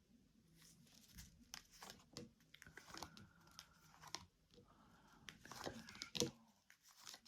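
Faint rustling and light clicks of tarot cards being handled, drawn and laid down one after another, with the sharpest click a little after six seconds in.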